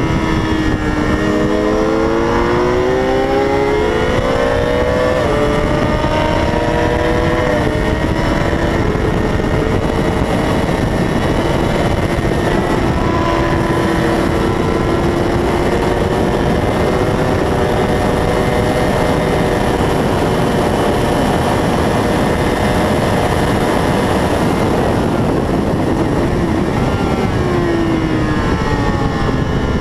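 600 cc racing motorcycle engine at full throttle, its pitch climbing through several upshifts, then held high and steady for a long stretch before dropping as it shifts down and picking up again at the end. A heavy rush of wind noise runs under it.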